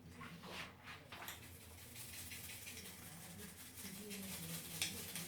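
Toothbrush with toothpaste scrubbing a small plastic Lego piece: a few separate strokes, then quick continuous brushing from about a second in.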